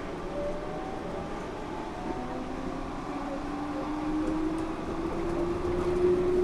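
Yurikamome rubber-tyred automated guideway train running, heard from inside the car, with a motor whine that rises slowly in pitch from about two seconds in as the train picks up speed.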